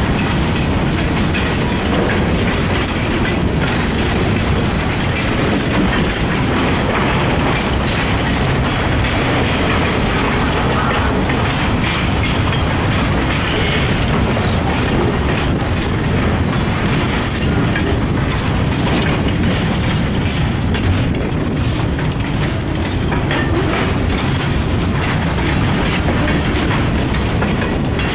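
Freight train of boxcars rolling past at close range: a loud, steady rumble with the clickety-clack of steel wheels over the rail joints.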